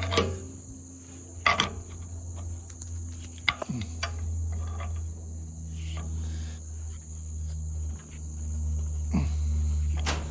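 Crickets chirring steadily at a high pitch over a low hum, with a few sharp clicks and knocks of tools or metal parts being handled.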